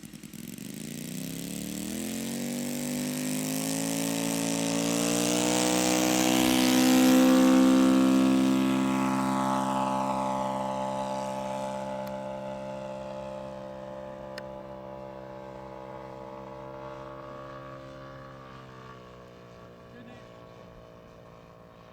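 Radio-controlled scale model Hawker Hurricane, its propeller power plant rising in pitch as it throttles up over the first few seconds. It grows louder to a peak about seven seconds in as the model passes close, then holds a steady note while fading as it flies away.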